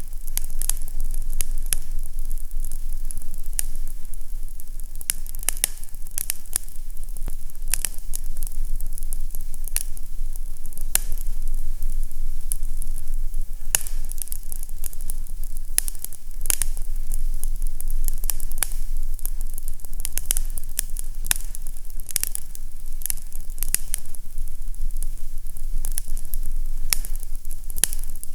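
Fireplace fire crackling, with irregular sharp pops and snaps several times a second over a steady low rumble.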